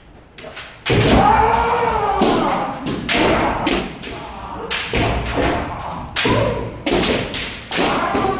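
Kendo sparring: a long kiai shout starting about a second in, followed by a rapid series of sharp cracks and thuds from bamboo shinai striking armour and feet stamping on the floor, with more shouts near the end.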